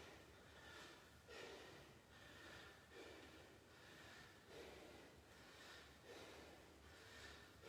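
Faint, rhythmic breathing of a man exercising through a set of squats, a breath about every second and a half.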